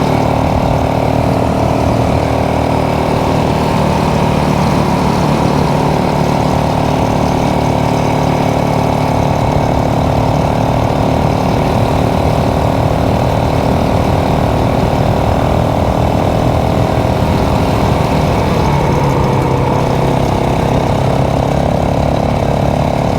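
A 450 cc motorcycle engine running steadily while riding at cruising speed. Its note drops about 19 seconds in as the revs fall.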